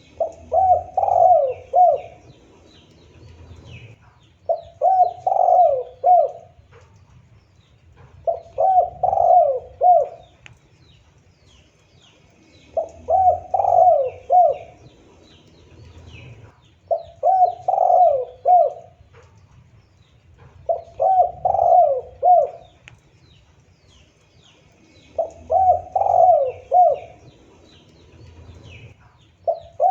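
Spotted dove (tekukur) cooing: a phrase of several quick coo notes, repeated about every four seconds. Faint chirps of small birds sound in the background.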